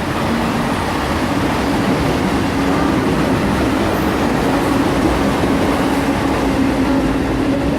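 JR East 209 series electric commuter train pulling away from a station, its running noise with a steady electrical hum from the traction equipment.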